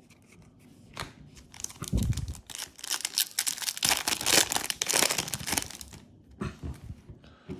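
Foil Yu-Gi-Oh booster pack wrapper being torn open and crinkled, a run of dense crackling tears loudest in the middle, followed by a couple of light clicks near the end.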